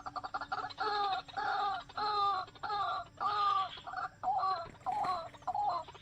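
A bird calling: a fast chattering run of short notes at the start, then a string of harsh, repeated calls at about two a second.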